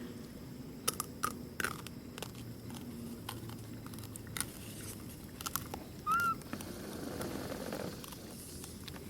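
Monkeys crunching and chewing food, a scatter of sharp crunches and clicks, with one short high squeak about six seconds in.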